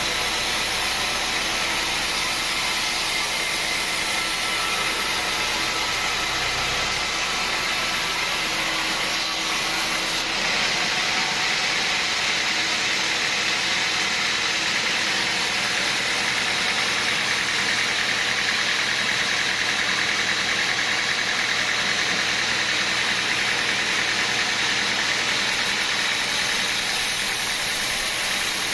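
Sawmill machinery running steadily: an even mechanical noise with a strong hiss, changing slightly in tone about ten seconds in.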